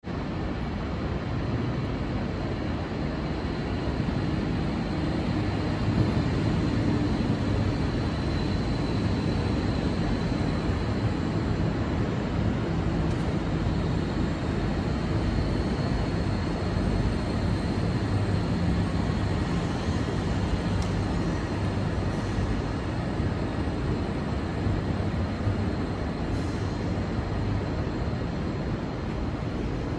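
Steady rumble and hiss of a moving train, with a faint high whine running through it.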